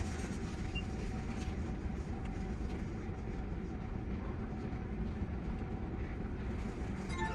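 Tsukuba Express TX-3000 series electric train running between stations: a steady rumble of wheels and motors with a faint steady hum.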